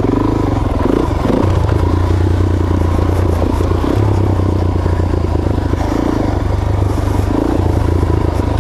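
Suzuki DR-Z400S single-cylinder four-stroke dirt bike engine running under way, its note dropping and picking back up a few times.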